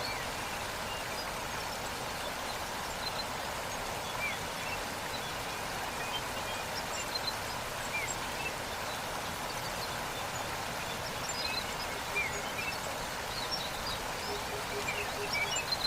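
Steady rushing of a waterfall, with short bird chirps scattered over it.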